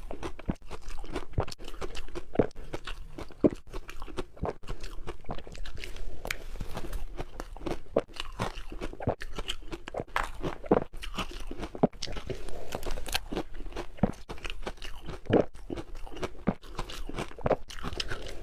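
Close-miked ice being bitten and chewed in the mouth: a dense, continuous run of crisp crunches.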